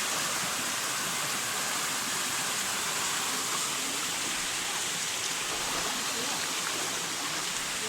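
Stream water running steadily, an even rushing hiss.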